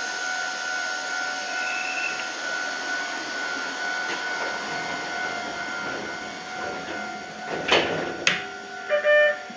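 Running noise of an Iyotetsu 3000-series electric commuter train: a steady rumble and hiss with two steady whining tones. Near the end come two sharp knocks about half a second apart, then a short tone sounded in two quick pulses.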